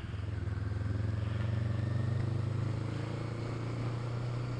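Motorcycle engine running as the bike rides off from traffic lights, with a steady low engine note heard from the rider's position.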